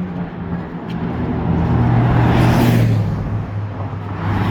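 A motor vehicle passing close by on the road, its engine hum and tyre noise swelling to a peak about halfway through and then fading. A second vehicle begins to approach near the end.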